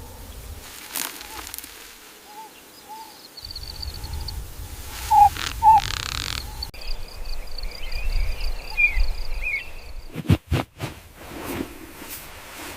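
Outdoor wildlife ambience: short chirping animal calls and a high trill over a low rumble, with a few sharp knocks about ten seconds in.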